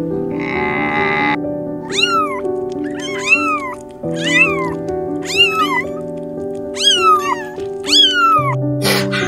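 A young kitten meowing, about six high-pitched calls that each rise and then fall, over soft piano music.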